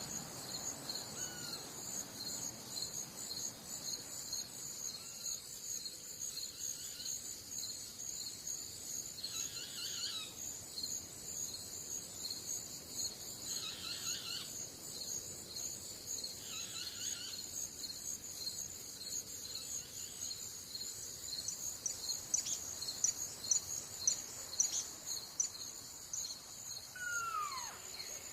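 Crickets chirping in a steady, rapidly pulsing high-pitched chorus. A few short calls come through now and then, and one falling whistled call is heard near the end.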